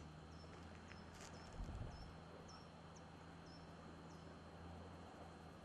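Faint animal chirping: a short high note repeated about twice a second, over a steady low hum, with a brief low thump about a second and a half in.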